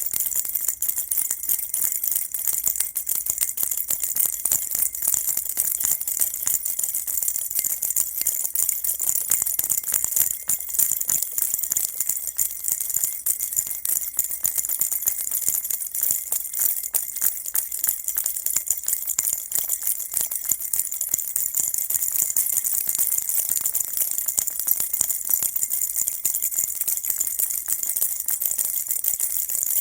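Baby rattle shaken continuously in a fast, steady rhythm, its small beads or bells making a dense high jingling rattle that never pauses.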